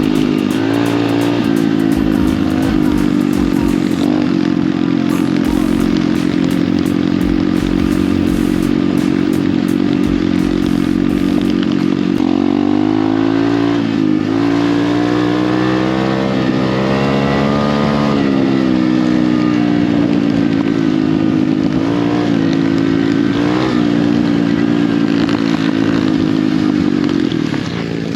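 Pit bike engine running hard while riding, its pitch rising and falling with the throttle.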